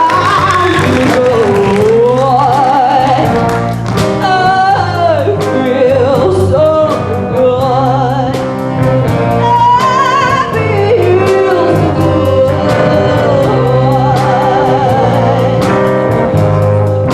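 Swing band playing: a wavering lead melody with vibrato over a steady bass and a regular cymbal or snare beat.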